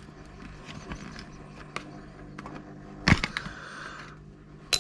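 A few sharp clicks and knocks from a circuit board being handled, the loudest cluster about three seconds in, over a faint steady hum.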